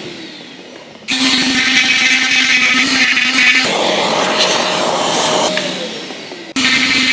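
Dremel rotary tool grinding JB Plastic Bond filler off a steering wheel, switched off and on. Its whine falls away at the start, cuts in abruptly about a second in, shifts pitch midway, winds down again, and starts once more near the end.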